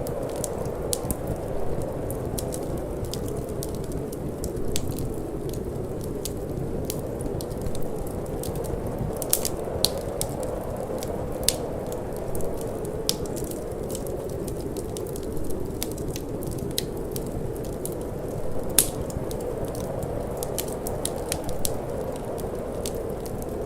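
Wood fire crackling in a fireplace, with frequent short sharp pops and snaps, one louder pop a little past the middle, over a steady low whoosh of wind.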